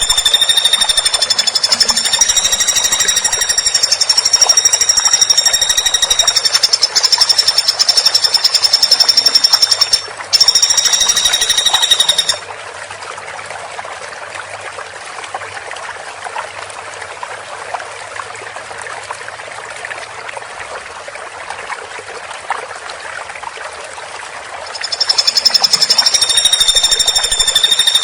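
Woodpecker giving a long, very fast rattling trill, high-pitched and held on several notes at once, with a short break about ten seconds in. It stops about twelve seconds in, leaving only a steady hiss with faint clicks, and starts again near the end.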